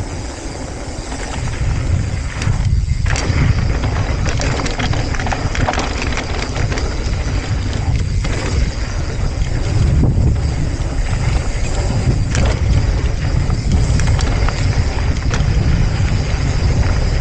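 Mountain bike descending a dirt fire road at speed: steady wind buffeting the microphone and tyre roar, with frequent rattling clicks from the bike over the rough surface.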